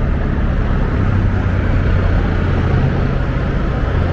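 Scooter riding through traffic: the engine runs steadily under a rush of wind and road noise, its hum growing a little stronger about a second in.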